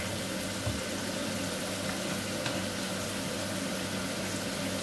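Chicken livers sizzling in a frying pan over a gas flame, a steady frying hiss with a low hum beneath it. There is a soft knock just under a second in.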